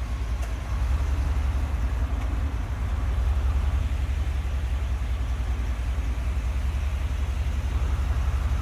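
A vehicle engine idling, a steady low rumble with an even pulse.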